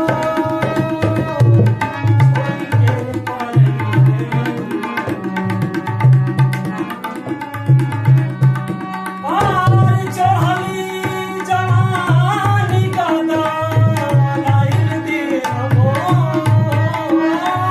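Tabla-type hand drum keeping a steady repeating rhythm under a melodic line that bends up and down. It is an instrumental passage of a Bhojpuri folk song accompaniment, and the melody grows stronger about halfway through.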